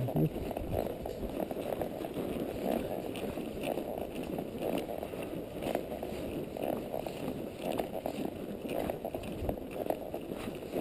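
Palomino Quarter Horse walking a dirt trail under saddle: a steady run of soft, irregular hoof thuds and rustling.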